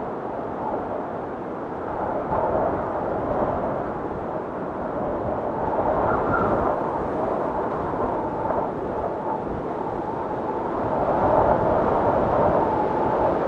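Snowstorm wind blowing in gusts that swell and ease, with a faint whistling tone on top; it grows louder near the end.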